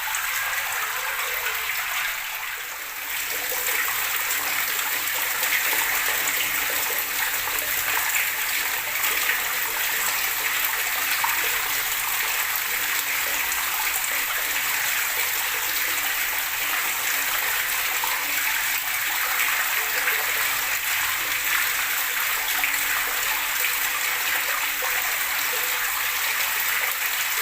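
Running water gurgling steadily, a continuous hiss of flow, with a brief dip in level about two to three seconds in.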